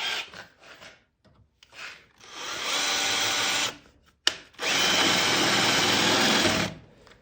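Power drill boring the head off a rivet, running in two steady spells of about a second and a half and about two seconds, with a sharp click between them.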